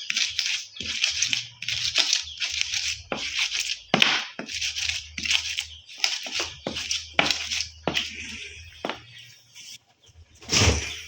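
Hand preparation of raw sambal ingredients: a run of short rasping strokes, about two a second, with small clicks, thinning out near the end before one louder stroke.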